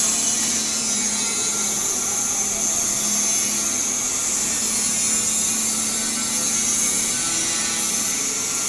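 Shielded metal arc (stick) welding with an E7018 electrode on a cap pass: the arc burns as a steady high hiss without a break.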